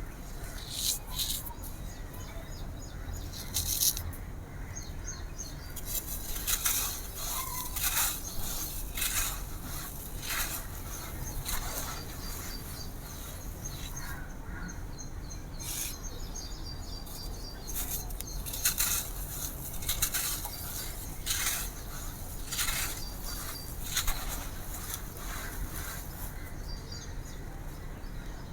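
A dry, crispy compressed-sand floor layer crumbling and cracking, in irregular crisp crunches with a few louder snaps spread through.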